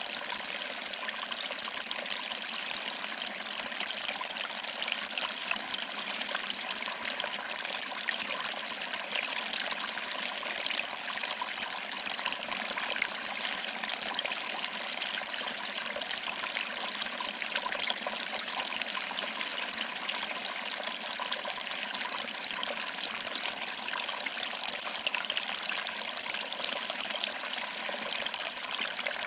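Small waterfall: water trickling over rocks and splashing into a pool below, a steady even rush without pauses.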